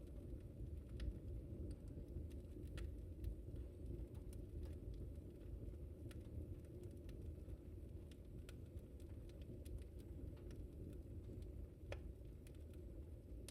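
Wood fire burning in a fireplace: a steady low rumble of flames with scattered sharp crackles every second or two, one sharper pop near the end.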